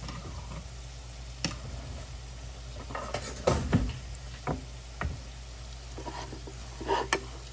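Food sizzling on a stovetop, a steady hiss over a low hum, with a few short knocks and clicks along the way.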